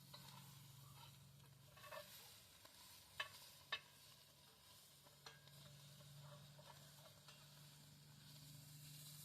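Faint campfire crackle with a few sharp pops, the loudest two about three and three and a half seconds in, over a low steady hum.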